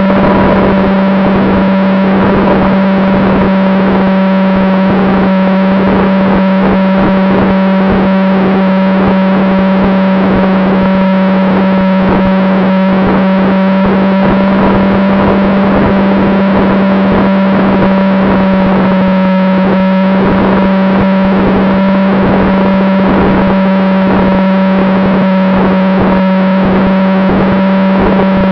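Model airplane in flight, heard through its onboard recording: a loud, unchanging distorted buzz over a steady rushing hiss.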